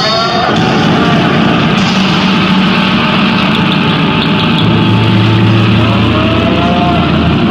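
A motor vehicle's engine running steadily on the road, with a low hum that grows stronger about two-thirds of the way through.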